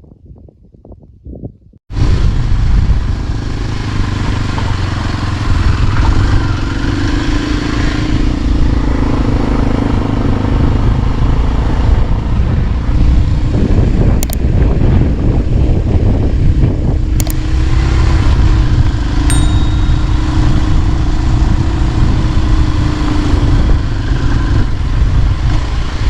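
A moving motor vehicle: loud, steady engine and wind noise on the microphone, starting suddenly about two seconds in, with a couple of sharp clicks in the middle.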